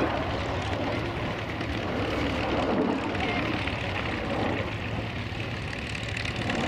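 Steady, distant engine noise from a vintage jet fighter in flight, with voices in the background.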